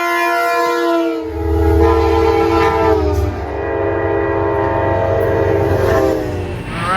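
Passing train's multi-chime horn sounding one long, loud blast over the low rumble of the train, its chord shifting a couple of times, with the pitch dropping near the end.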